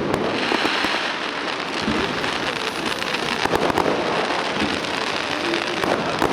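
Fireworks crackling: a dense, steady spray of tiny pops that runs together into a rain-like crackle, with no big shell bursts.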